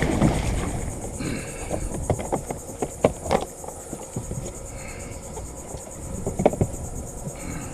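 Steady high-pitched insect chorus, with irregular knocks and splashes of water close by.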